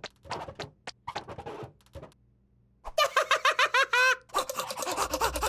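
Cartoon sound effects: a run of short ticks or taps, a brief pause, then a quick burst of high-pitched chirping, a cartoon character's bird-like vocal chatter.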